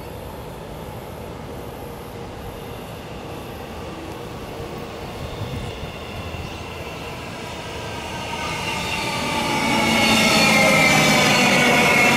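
Queensland Rail electric train approaching, growing from a low rumble to a loud pass over the last few seconds. As it nears, a high whine falls slightly in pitch.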